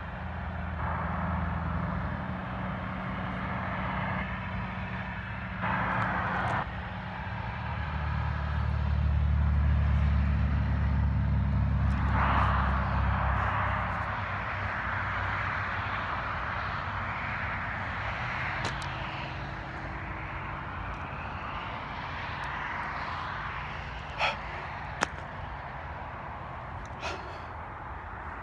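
Engine noise of a passing motor vehicle, a low hum that swells to its loudest about ten seconds in and then fades to a steady background drone. Two sharp clicks come near the end.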